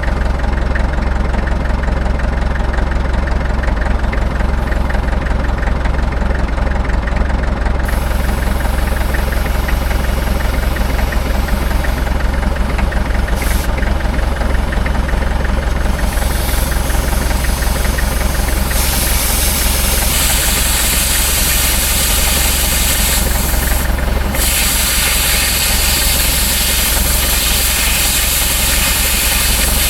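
An engine idling steadily, with a hiss that comes in about eight seconds in and grows louder in the second half.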